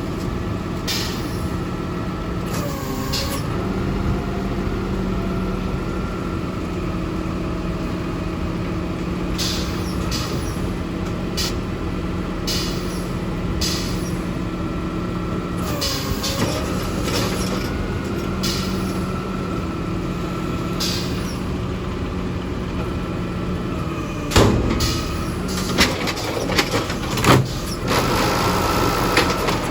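Recycling garbage truck running with a steady hum and whine whose pitch dips and recovers twice. A series of loud bangs and clunks comes in the last few seconds.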